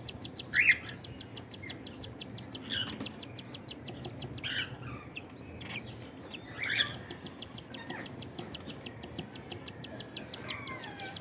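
Cockatiels calling as chicks are fed: a fast, steady run of short high chirps, several a second, the begging of hungry chicks, with a few louder calls over it and a brief lull about halfway through.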